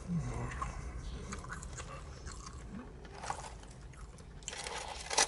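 Close-up mouth sounds of a person chewing fried fish and chips, with small wet clicks and light crunches and a short falling hum near the start. A louder crackle comes just before the end.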